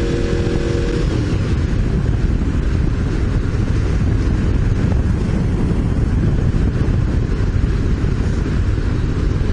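Wind and road noise buffeting a helmet-mounted camera on a moving motorcycle. The engine's steady tone drops away about a second in, leaving the loud, even rush of wind.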